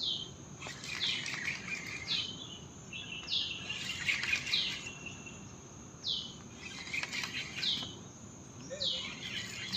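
A bird calling over and over, each call a short falling note, roughly one a second, over a steady high insect drone.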